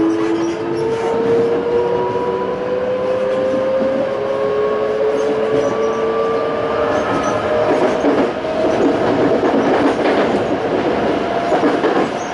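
Toei 5300 series electric train with a Hitachi-built Mitsubishi GTO VVVF inverter, under way and accelerating: several tones of the inverter and traction-motor whine climb slowly in pitch over wheel-on-rail running noise with clickety-clack. The rail noise grows heavier a little past the middle.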